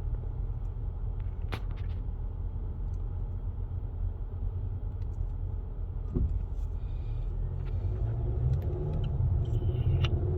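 Low road and engine rumble inside a moving car's cabin, growing louder over the last couple of seconds as the car speeds up. A brief click sounds about a second and a half in.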